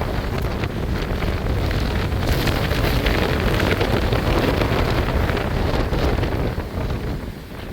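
Strong, gusty wind ahead of a thunderstorm buffeting the microphone, a loud rumbling rush. It eases briefly near the end before the next gust builds.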